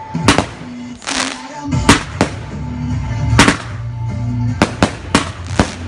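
Fireworks going off in a string of about eight sharp bangs, with a rushing hiss about a second in. Music with a steady bass line plays underneath from about two seconds in.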